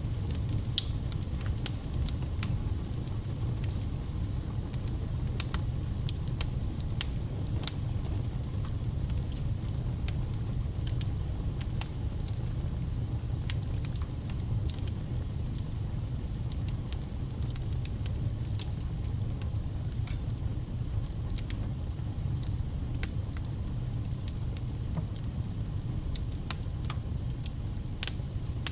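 Wood fire burning: a steady low rumble of flames with frequent sharp, irregular crackles and pops of burning logs.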